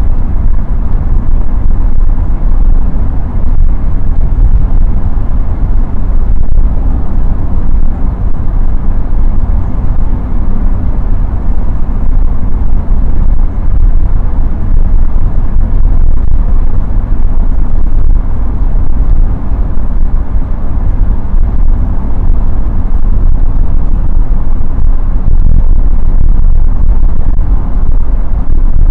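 Steady in-cabin drive noise of a BMW 316i E30 wagon: a loud low rumble from the four-cylinder engine and tyres on the road, unchanging throughout.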